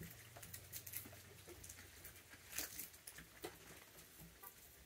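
Raccoons moving about and handling food: faint scattered clicks and scratchy rustles, with a couple of louder clicks about halfway through, over a steady low hum.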